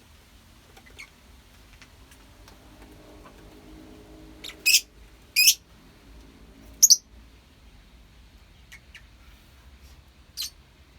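Lovebirds giving short, shrill chirps: three sharp calls close together around the middle and one more near the end, with fainter high chirps between.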